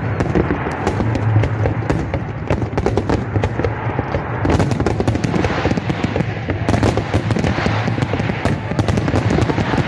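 Fireworks going off in a rapid, continuous crackle of many sharp cracks, with denser volleys about four and a half and seven seconds in.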